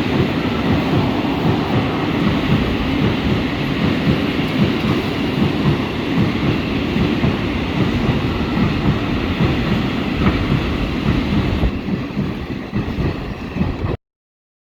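A train running on the rails: a steady rumble with the clatter of wheels over the track, cutting off suddenly near the end.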